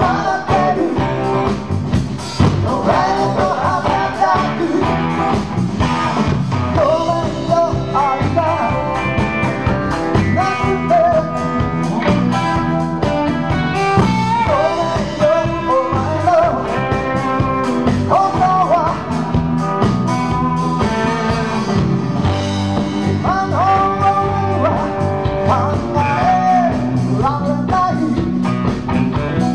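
A rock band playing live: a steady bass and drum backing under an electric guitar or voice carrying a lead line that bends and slides in pitch, in a blues-rock style.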